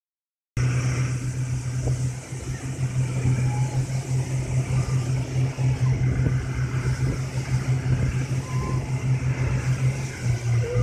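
Small donut boat's motor running steadily, a low, even drone.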